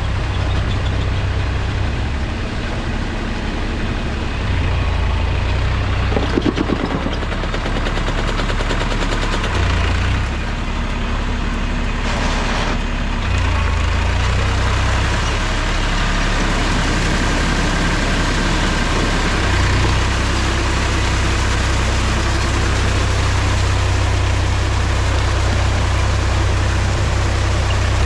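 Mahindra tractor's diesel engine running steadily with a deep low hum, its note shifting now and then, with a brief rattle about six seconds in.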